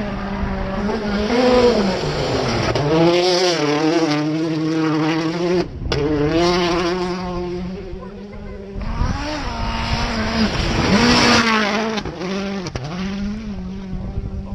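Rally car engine revving hard, its pitch repeatedly climbing and dropping back through gear changes. The sound cuts out briefly about six seconds in.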